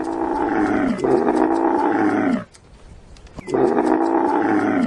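A large animal calling: long, loud calls that fall in pitch, the second running about a second and a half and the last starting about three and a half seconds in.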